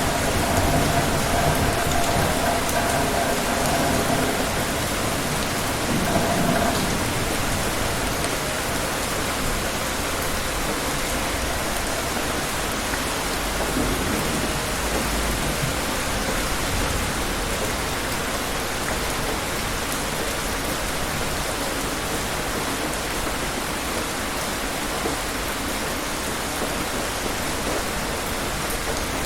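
Steady rain pouring down, with low rumbles of distant thunder, strongest in the first several seconds and again briefly around the middle.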